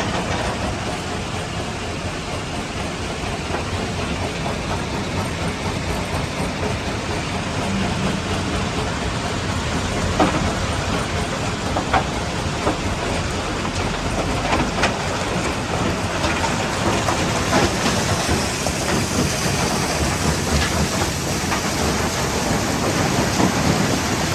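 Jaw crusher running with a steady heavy rumble, rocks clattering as they are crushed. Sharp knocks come every few seconds from about ten seconds in.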